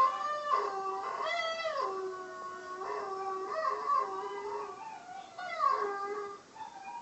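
Dog howling: long drawn-out howls that hold a pitch and then slide up and down.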